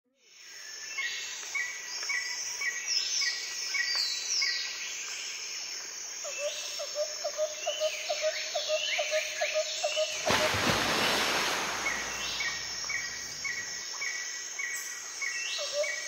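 Birds calling in short, quickly repeated chirps and ticking notes, with a loud rush of noise for a couple of seconds about ten seconds in.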